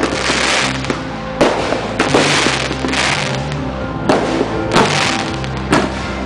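Fireworks shells bursting at close range, a loud bang roughly once a second, each followed by a rush of noise, over music with held notes.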